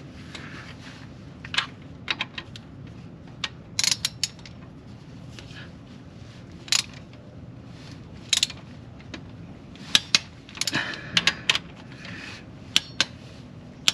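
A torque wrench tightening connecting rod cap bolts to 45 lb-ft: scattered sharp metallic clicks and short ratcheting runs, with tools clinking between them.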